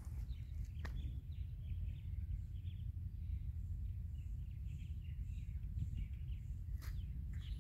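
Small birds chirping: many short, high chirps in quick succession over a steady low rumble.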